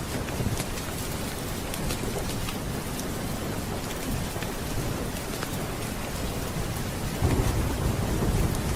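Steady rain with low thunder rumbling underneath, swelling louder about seven seconds in, and a scattering of small sharp crackles over the rain.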